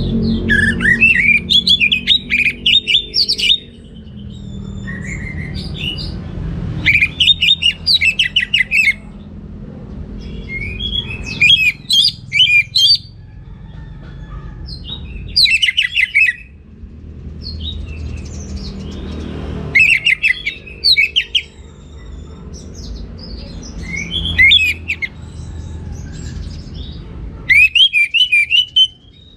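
Orange-headed thrush singing in loud bursts of rapid, varied warbling phrases. Each burst lasts one to three seconds and they come roughly every four seconds, over a steady low rumble.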